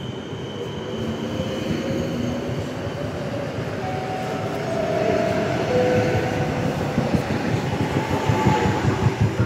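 Stadler FLIRT electric multiple unit running in along the platform and passing close by, growing louder as it nears. A steady whine from its drive sits over the running noise in the middle, and the wheels knock rhythmically over the rail joints near the end.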